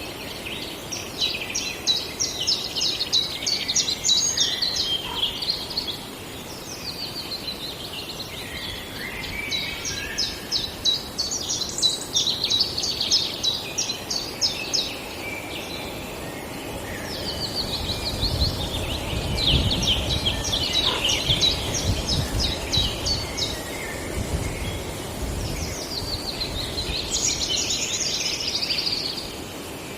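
Songbird singing four long phrases of rapid, high repeated notes with pauses between them. A low rumble swells and fades in the middle.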